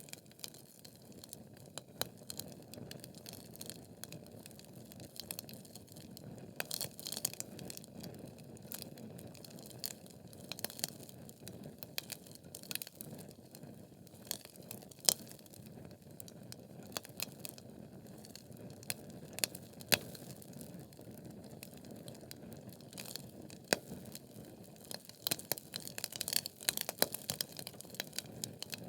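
Wood fire burning in a fireplace: logs crackling and popping at irregular moments over a steady low rush of flame, with a few louder pops and a busier run of crackles near the end.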